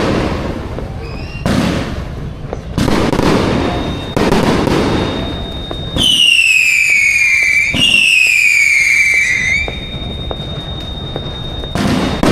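Fireworks going off in a series of loud bangs, one every second or so, with two loud whistling fireworks about halfway through, each a falling whistle, one straight after the other.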